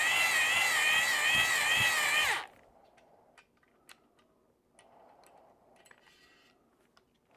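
Electric drill spinning a cylinder hone in the bore of a Yamaha 250 outboard cylinder, a loud whine that wavers in pitch, shuts off about two seconds in and winds down. Faint clicks and handling noises follow.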